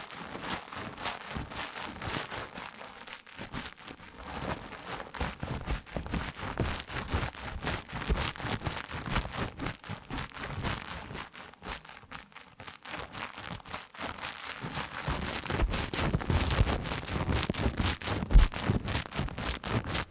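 Close-miked ASMR haircut sounds: dense rustling and crackling, like hair being handled right against the microphone. About fifteen seconds in, a deeper rumbling joins the rustling.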